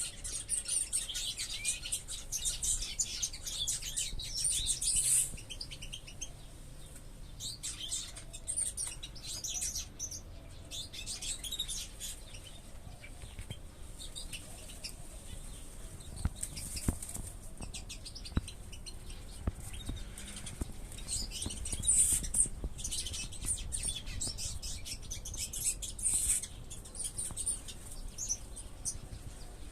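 Many small aviary birds chirping continuously in high-pitched, overlapping calls, with wing flutters and a few sharp clicks in the middle.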